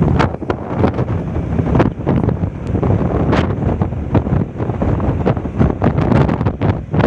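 Wind buffeting the microphone: a loud, uneven low rumble with frequent crackling gusts.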